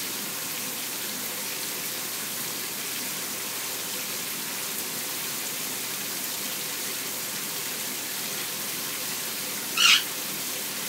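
Shower water running with a steady hiss. Near the end a parrot gives one short, loud screech.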